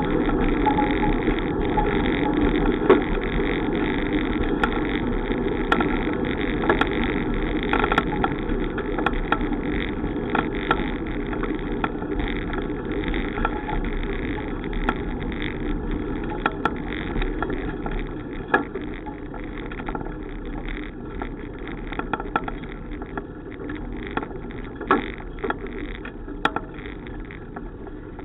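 Steady road and wind noise from a moving bicycle, with scattered clicks and knocks from bumps and rattles, gradually getting quieter.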